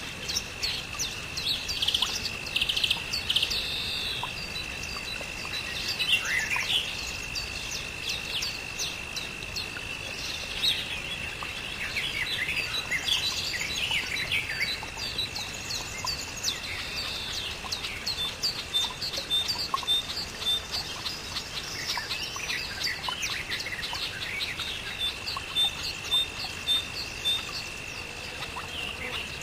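Several birds chirping and singing together, with a steady high-pitched whine underneath. Twice a bird repeats a short high note several times in quick succession.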